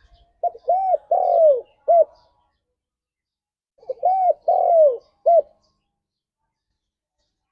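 Spotted dove (tekukur) cooing: two phrases a few seconds apart. Each phrase is four coos, with a longer, falling third coo before a short final one.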